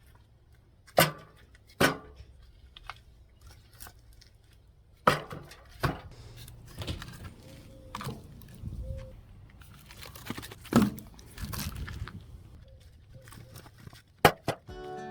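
A few sharp knocks and clicks, spread out irregularly, with light clatter and rustling between them.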